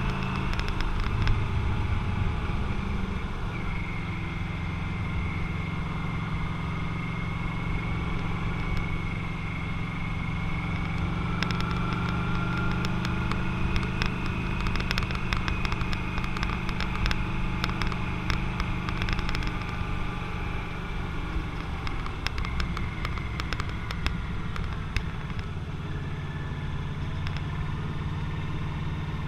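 Motorcycle engine running at a steady cruise while riding, its pitch drifting slowly up and down, with wind noise throughout. A run of short sharp clicks comes through in the middle.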